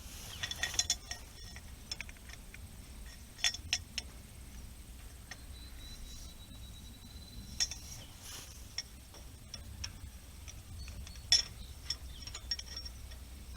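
Metal clinks and clanks of a wrench working the bolts on an old hay rake, a scattered series of sharp clinks with brief ringing, the loudest about eleven seconds in.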